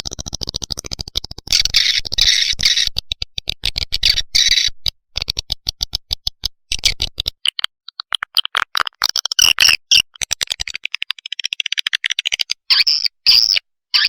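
Recorded swiftlet lure call: rapid twittering chirps and clicks of swiftlets mixed with the calls of swiftlet chicks, the kind of sound played to draw swiftlets into a swiftlet house. It runs as a fast stream for the first few seconds, then breaks into shriller chirps with short gaps.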